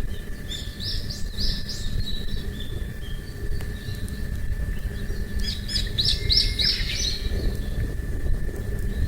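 A small bird singing two short phrases of quick, high repeated notes, one about half a second in and another around six seconds in, over a steady low outdoor rumble and a faint steady high tone.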